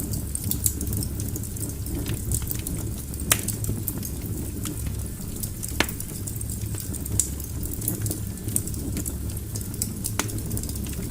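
Wood fire burning in a fireplace: a steady low rumble of flames with scattered crackles and a few sharper pops, the loudest about three seconds in, near the middle and about ten seconds in.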